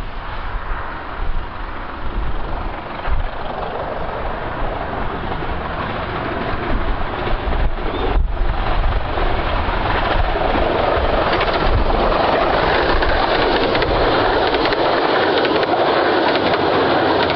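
A 15-inch gauge miniature railway train approaching, its running noise growing steadily louder through the second half.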